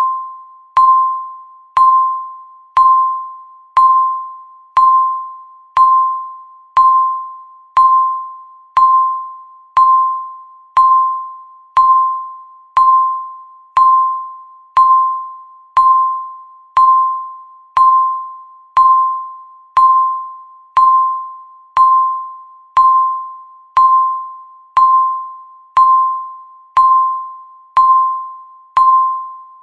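Countdown timer beeping once a second: each beep is a single clear tone that starts sharply and fades away before the next, about thirty in a steady, even rhythm.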